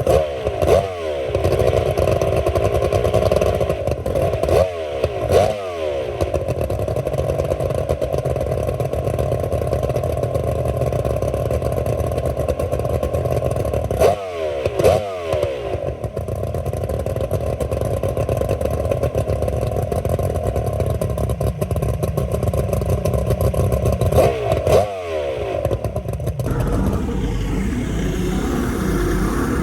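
Freshly rebuilt two-stroke outboard motor running at low speed during its break-in, chugging along below plane. Pairs of brief loud knocks come about a second, five, fifteen and twenty-five seconds in, and from about twenty-six seconds in the sound turns to a deeper, lower rumble.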